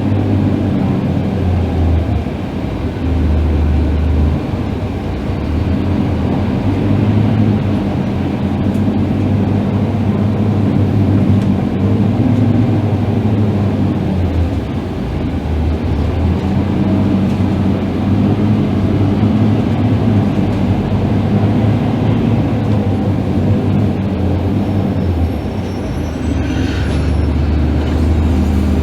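Scania K310IB bus's rear-mounted diesel engine running while the bus is driven, its low drone stepping up and down in pitch several times as it accelerates and changes gear.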